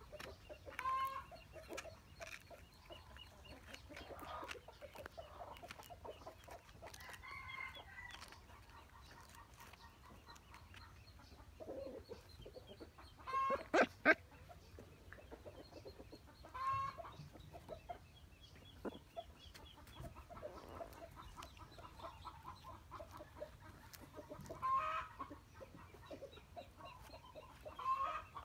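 Short bird calls every few seconds, the loudest about halfway through, over a low steady hum.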